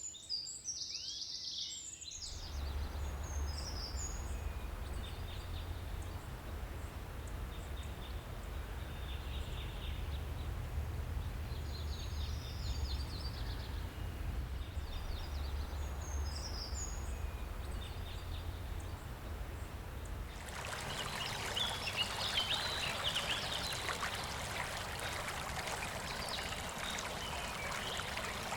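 Forest ambience: birds chirping and calling over a steady rush of flowing water, with a low rumble underneath. The recording changes abruptly about 2 s in and again about 20 s in; the later part has a brighter, louder rush.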